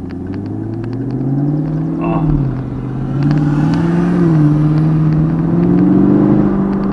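2020 Camaro SS's 6.2-litre V8 revving under acceleration. The engine note climbs for about two seconds, drops briefly, climbs again, dips once more about halfway through, then holds at a higher pitch.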